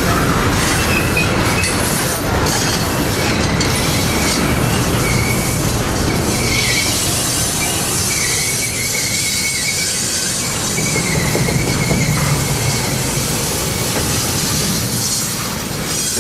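Train rolling past: a steady rumble of wheels on rail, with a thin high wheel squeal that comes and goes.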